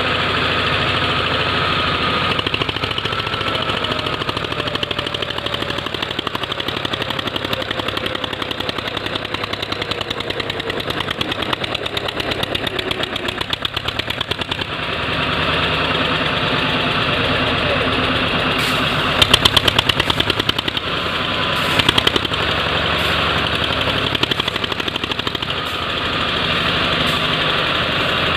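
Eicher 242 tractor's diesel engine running with a fast, even thudding beat. It gets louder about halfway through, and a few sharp, louder clattering bursts come about two-thirds of the way in.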